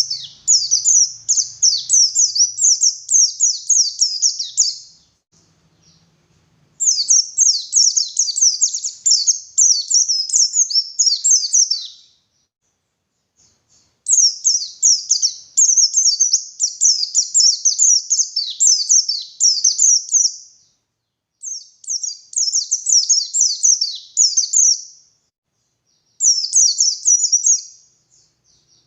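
White-eye (pleci) singing fast, high, twittering song phrases of rapid chirps and trills, in five runs of a few seconds each with short pauses between.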